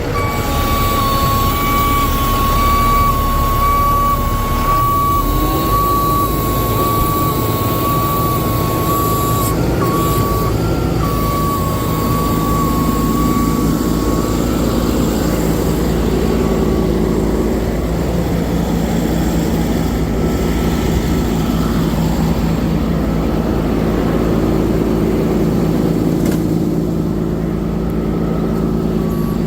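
Cummins 6.7-litre diesel of a Ford F750 bucket truck running with the PTO just engaged. A steady high-pitched tone sounds over it for about the first half, and the engine note rises and steadies at a slightly higher pitch about two-thirds of the way through.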